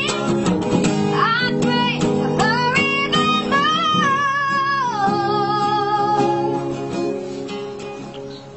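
A child singing to acoustic guitar accompaniment: a run of ornamented notes, then a long held note that ends about six and a half seconds in. The guitar rings on and fades.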